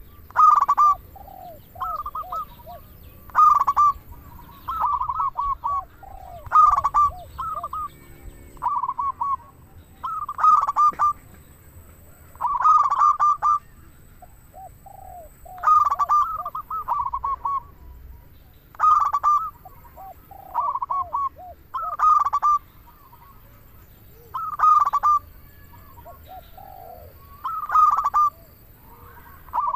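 Zebra dove (perkutut) cooing over and over: short rolling coo phrases every two seconds or so, with softer, lower notes between them.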